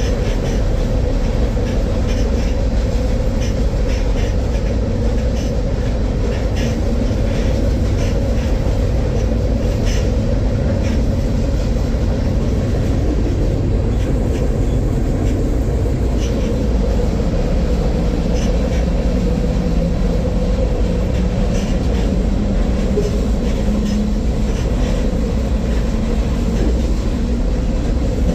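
Freight train rolling along, heard by a rider on board one of its cars: a steady, heavy rumble with a constant drone and scattered faint clicks from the wheels.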